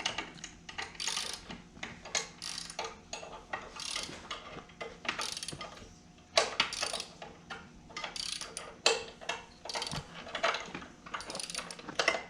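Ratchet wrench clicking in repeated back-and-forth strokes as nuts on the ATV's chain adjusters are tightened.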